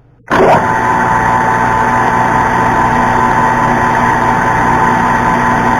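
Metal lathe switched on about a third of a second in, then running steadily with a constant whine.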